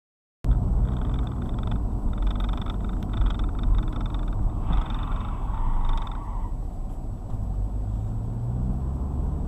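Car driving, recorded from a dashcam: a loud, steady rumble of engine and road noise that starts abruptly about half a second in. Near the end the engine's pitch rises slowly.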